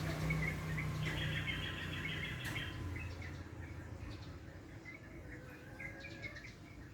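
Birds chirping and trilling, with a low vehicle rumble fading away over the first couple of seconds.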